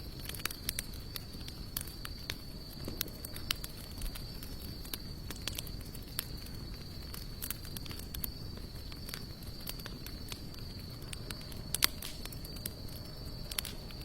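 Campfire of sawtooth oak and mixed hardwood logs crackling, with irregular sharp pops and a louder double pop near the end. A steady high insect trill runs underneath.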